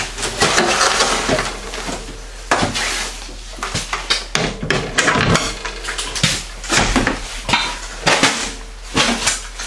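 Frozen-stiff jumper cables being handled and untangled, the metal clamps clanking and clattering in a quick irregular run of sharp knocks.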